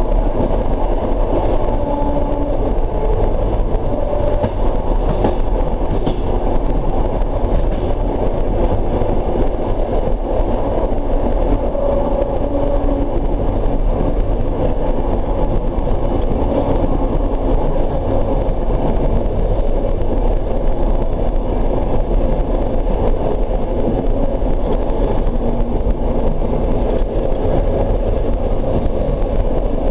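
Steady rumble of a suburban passenger train running along the track, heard from inside the carriage.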